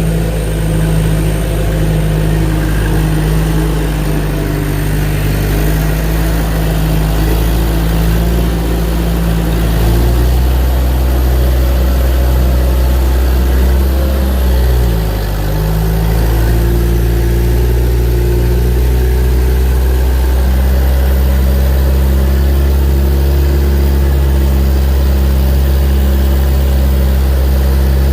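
Engine of a logging machine running steadily through a tree-skidding job. The engine note shifts about ten seconds in, dips briefly around fifteen seconds, then settles into a steady pull.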